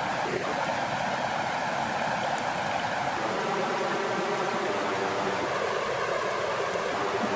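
Steady rush of flowing water with small waves lapping, an even, unbroken wash of sound.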